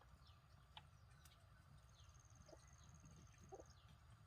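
Faint chirping and soft clucking of chickens, with short downward chirps repeating throughout and a brief rapid high trill about two seconds in.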